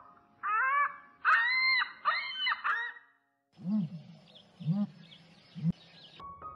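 A cat meowing five times in quick succession. After a short break, another clip begins: an animal giving three short, low calls about a second apart over a steady hiss.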